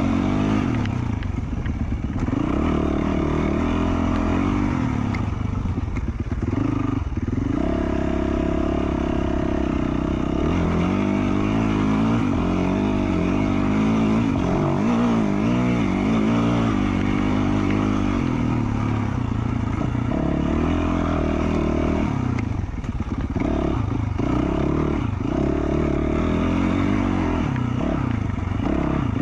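2020 Yamaha YZ450F four-stroke single-cylinder dirt bike engine, through an FMF Q4 slip-on exhaust, running under load on a trail ride, its pitch rising and falling repeatedly as the throttle opens and closes.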